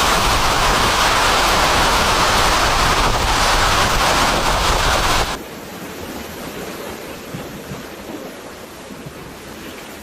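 Loud, steady rushing storm noise, a hiss like heavy rain or moving water, that cuts off suddenly about five seconds in and gives way to a much quieter hiss.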